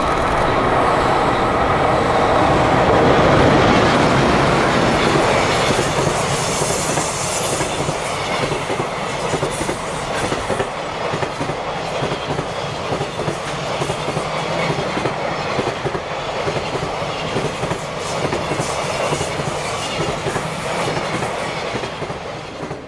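JR Freight EH500 electric locomotive passing close by with its freight train, loudest a few seconds in, followed by a long run of container wagons rattling past with a steady, rhythmic clickety-clack of wheels on the rails. The sound fades away in the last second.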